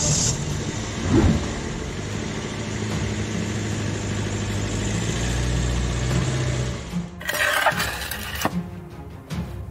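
A car engine starting about a second in and then idling with a steady low hum. Near the end comes a louder, noisier stretch of about a second.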